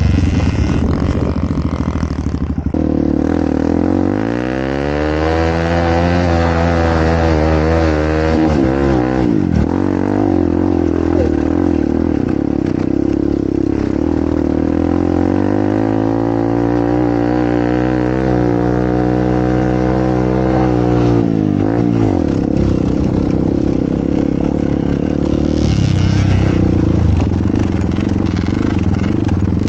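Enduro dirt bike engine running under throttle. Twice it revs up in a long climb, holds high revs for several seconds, then drops sharply off the throttle.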